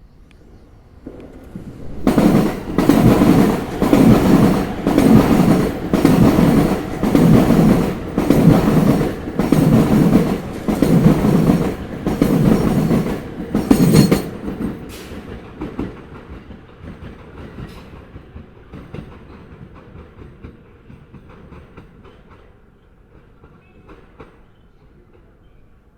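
Sobu Line train's wheels clattering over rail joints as it passes: a loud, rhythmic clack about once a second for some twelve seconds, then fading to a low rolling rumble.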